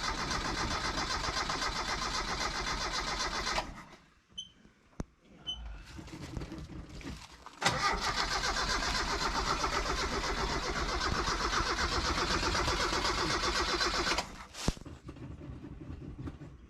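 Starter cranking the 1979 Chevy LUV 4x4's engine without it catching: one try of about three and a half seconds, a pause with a few small clicks, then a longer try of about six seconds that stops. A single click follows near the end.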